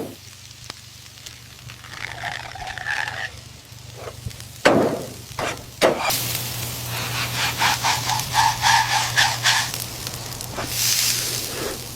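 Food frying and sizzling in a hot pan, the sizzle starting loud about six seconds in, after a couple of sharp knocks.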